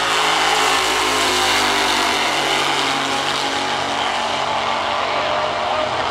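Street cars' engines running hard down a drag strip, a loud steady engine drone that eases off slightly through the run.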